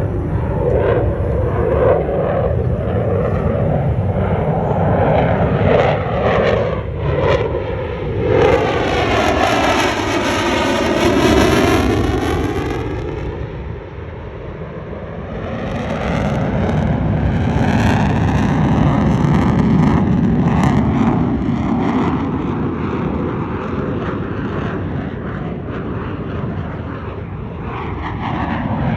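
Fighter jet flying past with a continuous engine roar, sweeping through a close pass about ten seconds in, easing off briefly, then building again.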